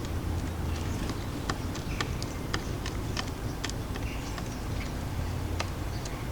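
Birds pecking at seed on a garden feeder: a run of irregular sharp taps, a few a second, over a low steady background rumble.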